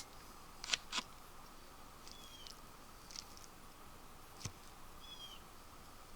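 A songbird repeating a short chirped phrase about every three seconds, over faint outdoor background. A few soft clicks come twice about a second in and once near the middle.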